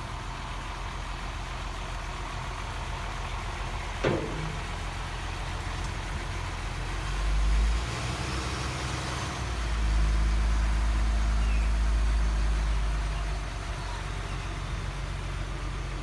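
A heavy vehicle engine idling with a steady low hum, swelling louder briefly about seven seconds in and again for a few seconds from about ten seconds in, with a single sharp knock about four seconds in.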